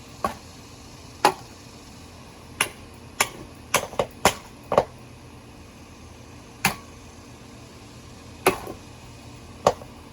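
A hammer striking a ceiling fan: about eleven sharp, separate blows at an uneven pace, with a quick run of several around the middle.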